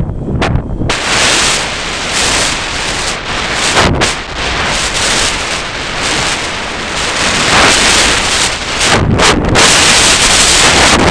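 Strong gusty wind buffeting the microphone: a loud, rough rush that keeps swelling and easing, dropping briefly near the start and again about nine seconds in.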